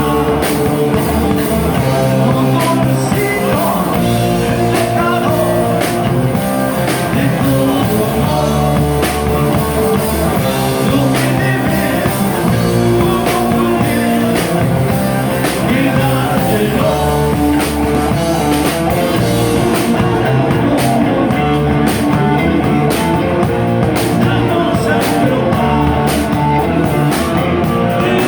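Live rock band playing a song: guitar and drum kit at a steady loud level, with a singing voice, and the drum hits more prominent in the second half.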